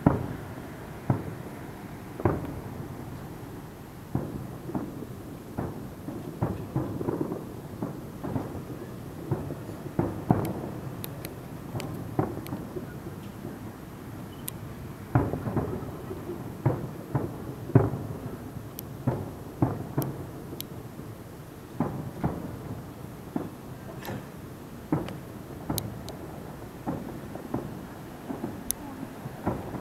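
Fireworks display: aerial shells bursting in an irregular run of deep booms, sometimes several a second, each trailing an echo, with faint sharp crackles between them.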